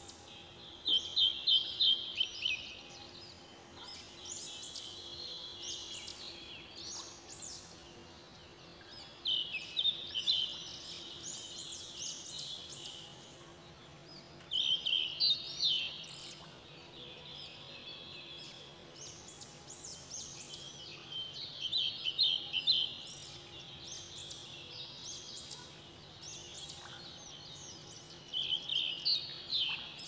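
Small songbirds chirping and twittering, with loud bouts of rapid chirps about every six or seven seconds over softer continuous twittering.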